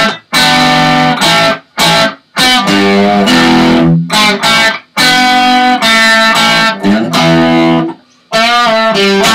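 Electric guitar playing a bluesy rock solo phrase: a run of sustained notes with string bends, including a bend on the A at the 7th fret of the D string, with a few brief pauses between phrases.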